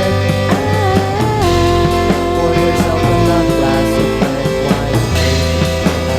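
Twee pop band playing an instrumental passage: a steady drum beat and bass under a sustained lead melody that bends and slides about a second in.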